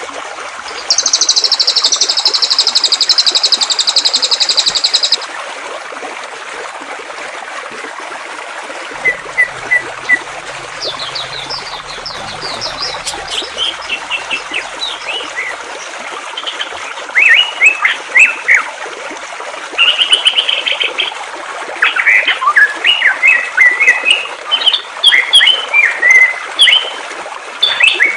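Songbirds calling over a steady rush of running water. A loud, rapid, high trill sounds for a few seconds near the start; then short, sharp, repeated calls come in, sparse at first and busier through the second half.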